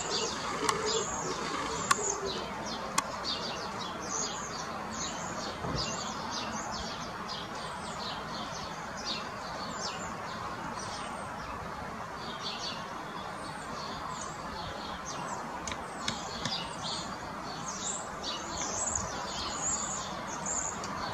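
Small birds chirping repeatedly over a steady background hiss, with a few sharp clicks in the first three seconds.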